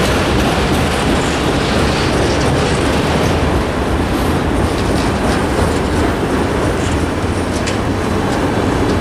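Autorack freight cars of a CSX train rolling past: a steady loud rumble of steel wheels on rail, with a few sharp clicks.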